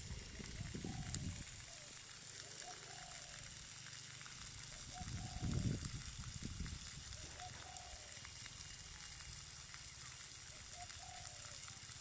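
Steady hiss of rushing water, with a faint short bird call repeated about every two seconds and low rumbles near the start and again about halfway through.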